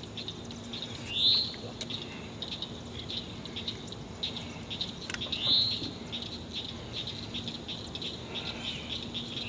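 A wild bird giving a short rising call three times, about four seconds apart, over a steady background of faint high chirping from insects and other birds.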